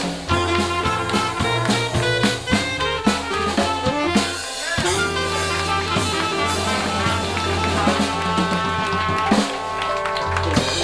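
Live jazz band playing, with drum kit, brass and a walking bass. The drums play a steady beat with rimshots.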